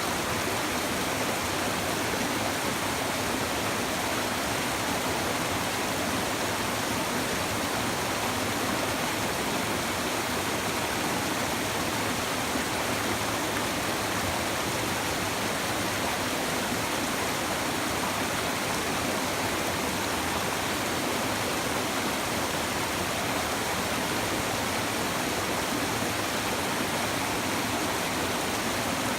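A shallow stream babbling steadily over rocks, an even, unbroken rush of water.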